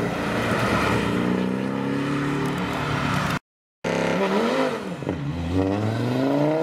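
Sports car engines accelerating past: a Porsche 718 Boxster revving as it pulls away, then, after a brief dropout of the sound at an edit, an Audi TT RS's turbocharged five-cylinder revving up, dipping briefly at a gear change and climbing again.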